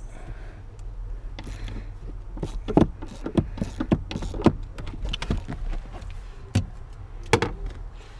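Irregular clicks and knocks of hands and a tool working at the rear seat fixings inside a car, over a steady low hum.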